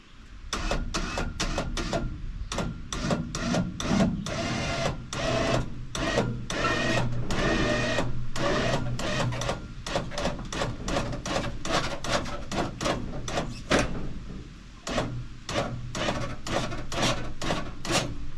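Badland 5000 ZXR 12-volt electric winch running under load, pulling a heavy, wet red oak log onto a sawmill. A steady motor hum runs throughout, with many sharp, irregular clicks and knocks.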